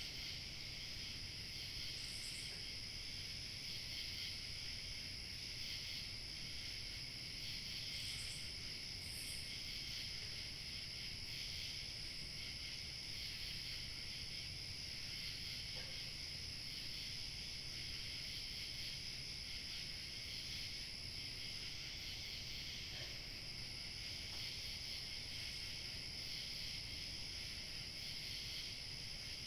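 Crickets chirping steadily in a dense chorus, several high trills overlapping without a break, over a faint low rumble of outdoor night ambience.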